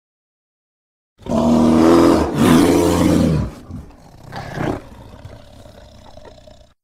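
A bear roaring on a film soundtrack. A long, loud roar in two parts begins about a second in, then a shorter, quieter call follows about a second later and trails off.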